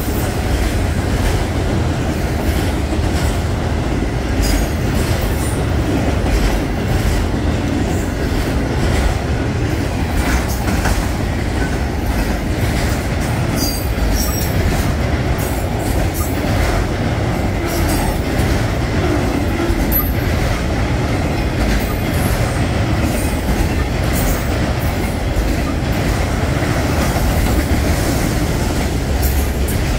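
Freight train of autorack cars rolling past: steady rumble and rattle of steel wheels on the rails, with scattered short high-pitched clicks and squeaks from the wheels.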